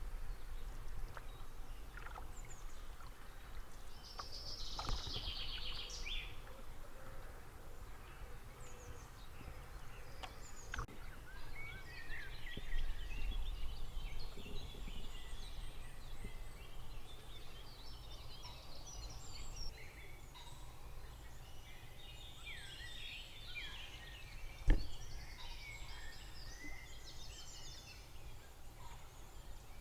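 Several songbirds singing and chirping in the morning, with a fast rattling trill about four seconds in. One sharp knock sounds about 25 seconds in, louder than the birds.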